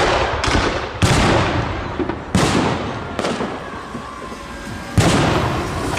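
Fireworks display: aerial shells bursting about six times with uneven gaps, each bang followed by a rolling, rumbling echo.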